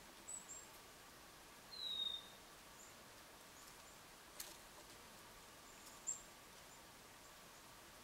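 Faint, high, thin bird chirps near the start and again about six seconds in, with one louder downslurred whistled note about two seconds in. A single sharp tap comes near the middle.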